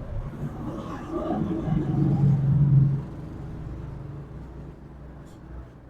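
A motor vehicle engine running nearby, swelling to its loudest around two to three seconds in and then dropping away, over a steady low hum.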